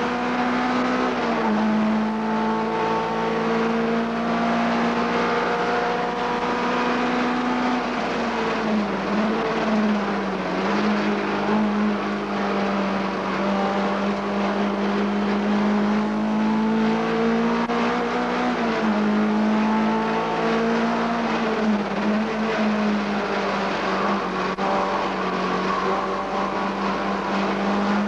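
BMW E30 race car's engine heard from inside the cabin, running hard at speed on a lap, its note dipping and climbing again several times through the lap.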